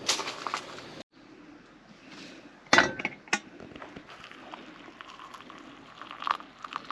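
Scattered sharp clinks and knocks, the two loudest close together about three seconds in.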